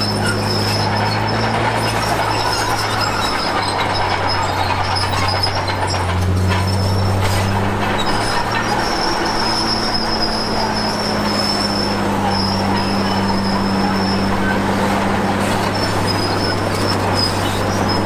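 Komatsu D53P crawler bulldozer's diesel engine running under load, with a steady high squeal from its steel tracks and undercarriage. The engine note shifts about six seconds in.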